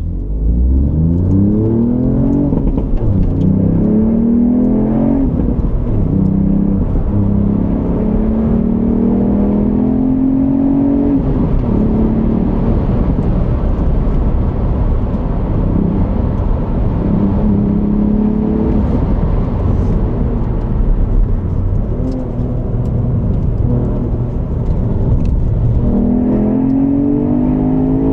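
2020 Ford Fiesta ST's turbocharged 1.5-litre three-cylinder EcoBoost engine through its stock exhaust, driven hard. It revs up steeply in the first couple of seconds, then climbs and drops in pitch several times as it pulls, shifts and lifts, with steadier stretches between.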